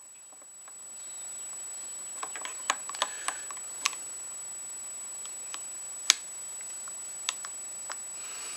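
Irregular light clicks and taps of an aftermarket aluminium clutch lever and its pivot pin being handled and trial-fitted in the handlebar perch, with one sharper knock about six seconds in. A faint steady hiss comes in about a second in.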